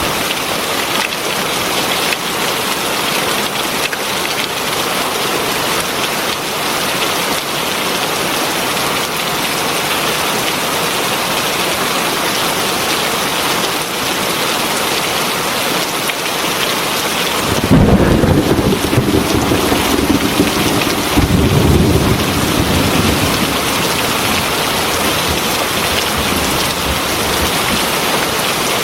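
Heavy rain falling steadily. About two-thirds of the way through, a roll of thunder breaks in suddenly and rumbles for several seconds before fading back under the rain.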